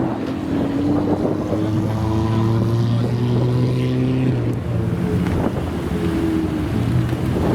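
Supercar engine running at low revs with a steady pitch and a brief dip about two-thirds of the way through.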